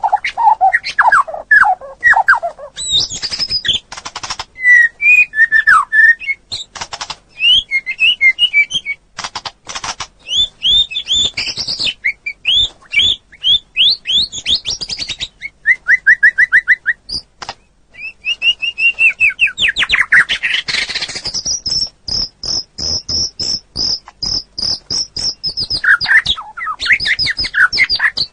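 Songbird song from a masteran mix of linnet, white-rumped shama and canary: a fast, continuous, varied run of chirps, whistles and trills, with a long even series of repeated high notes in the second half.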